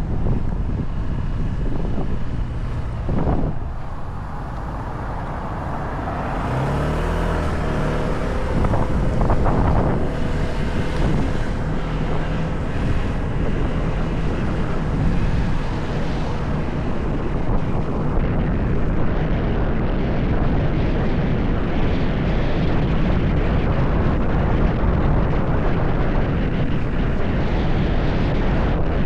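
Motorcycle riding along a road: engine running under heavy wind noise on the microphone, with the engine note rising and falling several times in the middle.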